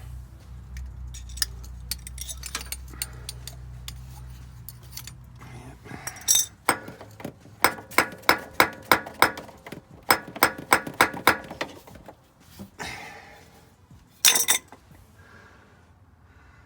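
A rapid run of sharp, ringing metallic clinks, about three or four a second for some five seconds, from hand tools working a square extractor in a broken exhaust manifold bolt. A low steady hum lies under the first six seconds.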